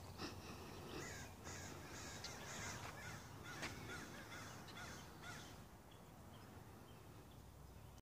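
A bird calling over and over, a short harsh call about twice a second, starting about a second in and stopping a little past the middle; faint.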